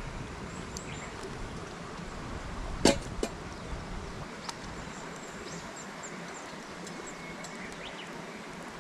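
Steady background hiss with one sharp click about three seconds in, a softer click just after, and a few faint ticks.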